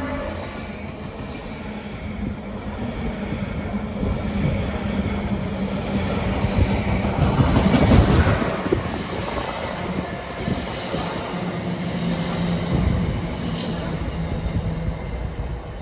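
A train passing at speed: continuous rumble of wheels on rail with a steady low hum and occasional clunks over rail joints, swelling to its loudest about halfway through and then easing off.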